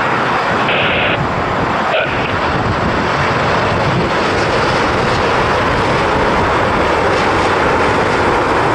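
Airliner's engines running, a loud steady rush of noise as the aircraft passes close by.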